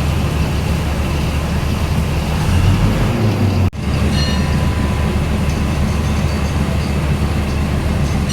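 Passenger train running along the track, heard from on board: a steady low rumble that breaks off for an instant a little under four seconds in, with faint steady high tones after that.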